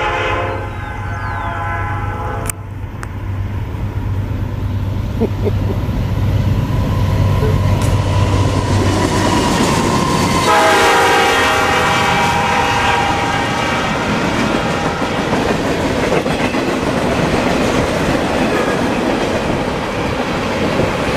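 Freight train's diesel locomotives passing close by, sounding the air horn once ending a couple of seconds in and again about ten seconds in, over a steady low engine rumble. The long string of cars then follows with a continuous rushing rattle and clickety-clack of wheels on rail joints.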